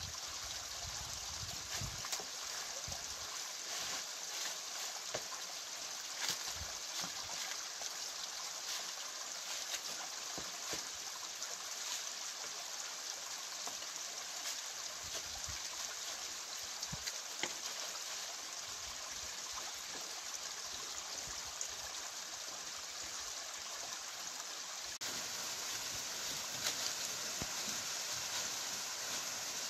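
Stream water running and splashing over rocks at a small waterfall, a steady rushing with a few faint ticks of splashes, a little louder for the last few seconds.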